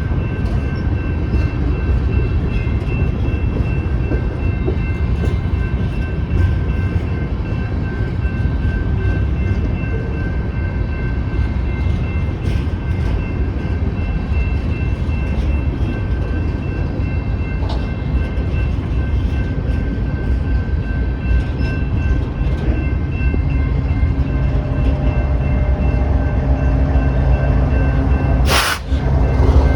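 Coal train's freight cars rolling steadily past: a heavy continuous rumble with scattered clicks of wheels over the rails.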